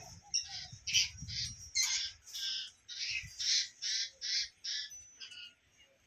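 A bird squawking in a rapid series of short, harsh, high calls, about three a second, that stops shortly before the end.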